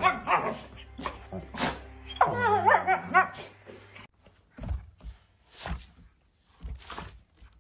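A dog whining and yowling in long, wavering, up-and-down calls for about three seconds. After a cut come three soft thumps about a second apart.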